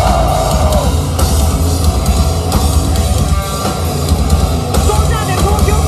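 A rock band playing live and loud, with distorted electric guitars and a drum kit.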